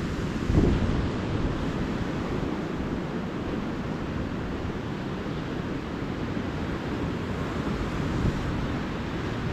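Ocean surf washing steadily onto the beach, with wind rumbling on the microphone and a brief louder low gust about half a second in.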